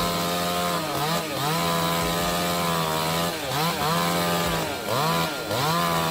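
Chainsaw running at high revs. Its pitch drops sharply and climbs back several times, about a second, three and a half seconds and five seconds in.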